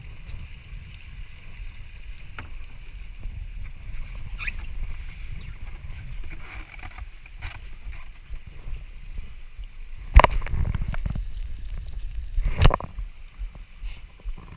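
Kayak running down a storm-drain channel: a steady low rumble of water and hull, with a few small knocks and two loud ones about ten and twelve and a half seconds in as the hull strikes the drain.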